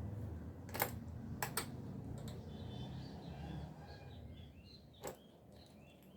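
A few sharp clicks or knocks over a steady low hum, with birds chirping faintly in the second half.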